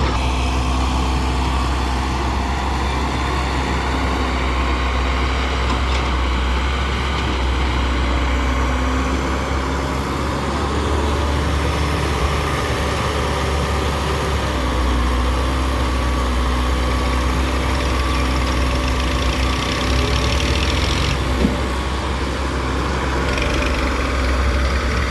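Heavy diesel machinery running steadily with a deep rumble: a wheeled excavator working as it loads mud into a tractor trolley, with the engine note shifting slightly under load. One brief knock about twenty seconds in.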